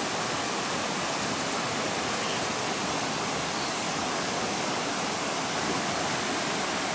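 Rushing river water: a steady, even roar of fast-flowing water.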